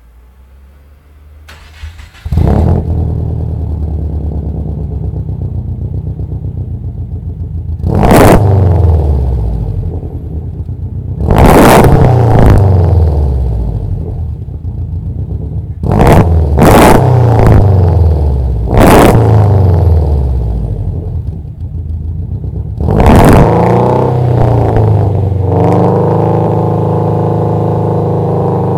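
Subaru Impreza's flat-four boxer engine breathing through a new full 2.5-inch OMP Group N exhaust: it starts about two seconds in, idles, then is revved about six times, each blip falling back to idle, before settling to a steady idle.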